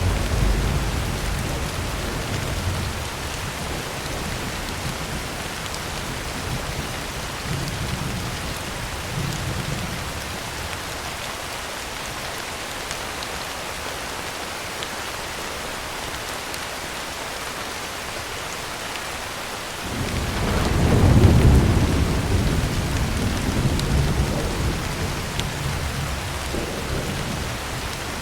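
Heavy rain drumming steadily on a tin roof, with rolling thunder: a low rumble fades out over the first few seconds, and a new peal breaks in suddenly about two-thirds of the way through, then slowly rolls away.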